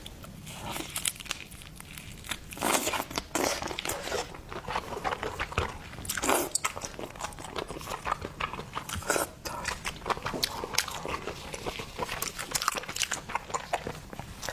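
Close-miked eating of seafood: biting and crunchy chewing, with a dense, irregular run of sharp crackles and smacks and a few louder crunches along the way.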